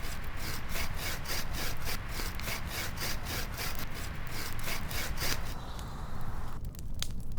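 Hand-held bushcraft saw cutting wood in quick, even strokes, about four a second, that stop a little over halfway through. A single sharp click near the end.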